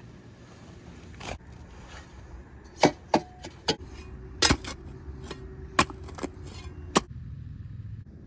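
A run of sharp, irregular knocks and clicks, about eight in all, over a low steady rumble.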